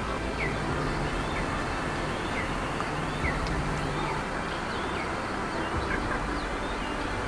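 Bird calls: short, high chirps that slide in pitch, scattered a few at a time over a steady outdoor background with a faint low hum.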